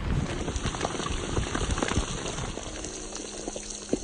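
Rain falling steadily, with many irregular drop hits.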